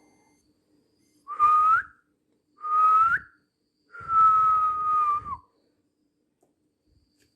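Three whistled tones: two short ones that each rise at the end, then a longer, steady one that drops away at the end.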